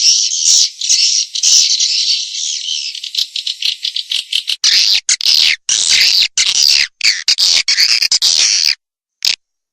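Swiftlet lure-call recording: a dense chatter of rapid, high twittering chirps of swiftlets, used to attract swiftlets to nest in a swiftlet house. About halfway through it turns choppier, breaking off in short gaps.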